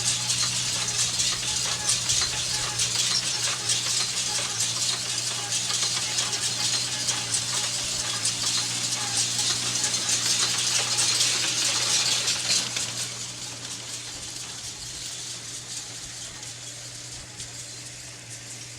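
Tractor engine running steadily with the dense rattle and clatter of a working straw baler over it. The rattle drops away about two thirds of the way through, leaving a quieter engine hum.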